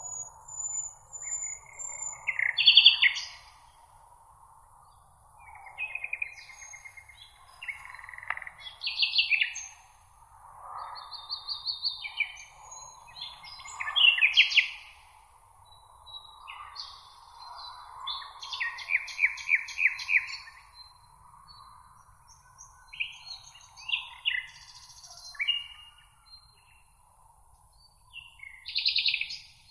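Songbirds singing in a meadow: short chirped and trilled phrases from several birds, one after another, over a steady high-pitched hiss.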